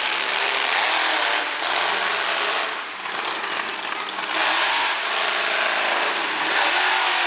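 Monster truck engine running loud and revving, easing off about three seconds in and then revving up again.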